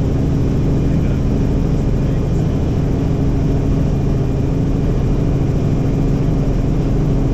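Helicopter engine and rotor noise, loud and steady, with a constant low hum.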